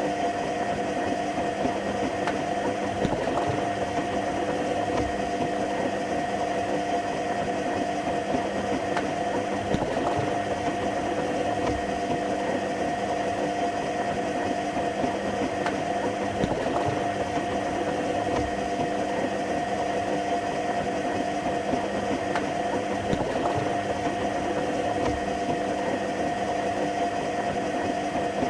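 Washing machine running, its motor humming steadily on a few even tones, with faint irregular knocks from the drum.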